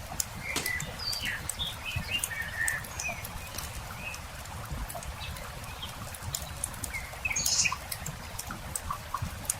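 Wood campfire crackling with frequent sharp pops, while small birds chirp in short calls throughout.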